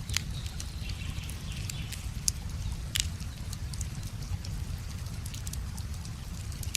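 Wood fire crackling with scattered sharp pops, the loudest near the start and about two to three seconds in, over the steady low rush of a flowing river.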